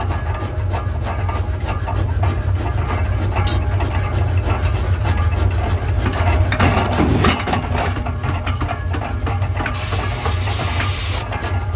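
Forge-shop machinery running with a steady, loud low hum and light clicking, broken by a burst of hissing about ten seconds in.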